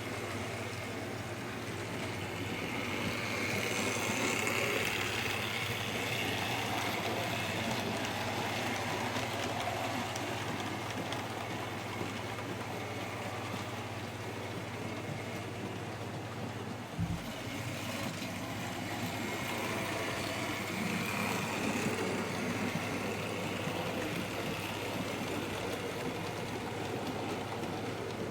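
Model King Arthur class locomotive running on the layout's track, with a steady motor hum. It grows louder twice as it passes close, and there is a single brief knock a little past the middle.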